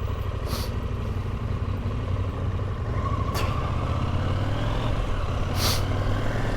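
Motorcycle engine running steadily under way, a low drone, with three brief hissing gusts over it.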